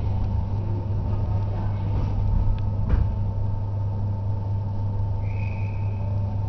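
Electric suburban train heard from inside the carriage, a steady low hum and rumble as it slows to a stop at a platform. There is a single clunk about three seconds in and a short high tone near the end.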